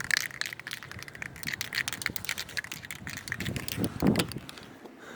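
Aerosol spray paint can being shaken, its mixing ball rattling in quick, irregular clicks, with wind buffeting the microphone.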